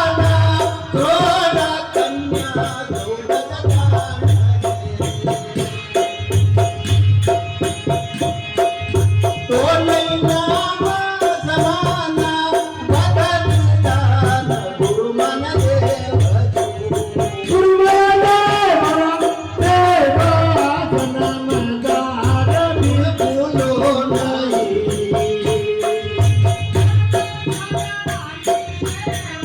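Rajasthani bhajan (devotional folk song): a sung melody over a steady beat of drum strokes and jingling hand percussion.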